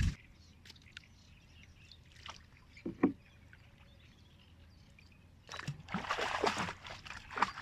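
Small boat on the water: two sharp knocks about three seconds in, then about two seconds of splashing and sloshing near the end.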